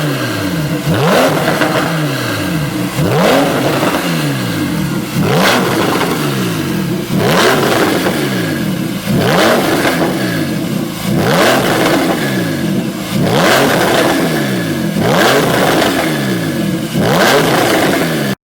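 Porsche 911 (991) Carrera 4S flat-six with an aftermarket valved sport exhaust, revved repeatedly: about nine quick throttle blips roughly every two seconds, each pitch rising sharply and falling back. Sound cuts off suddenly near the end.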